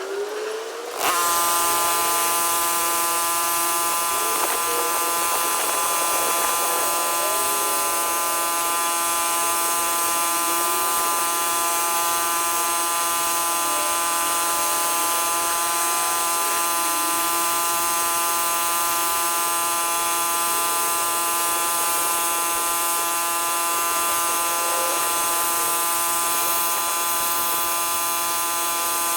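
Pressure washer running steadily: a loud, even buzzing whine that starts abruptly about a second in.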